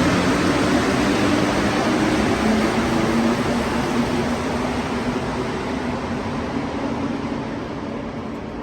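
Metro train running with a steady rumble and low hum that slowly fades as it moves away.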